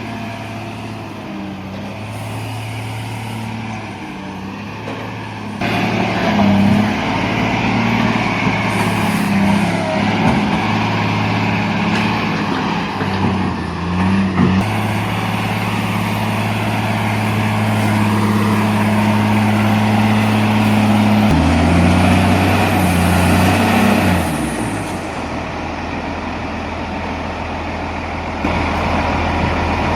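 Heavy diesel earth-moving machinery running under load, the engine note changing abruptly several times as one clip cuts to the next.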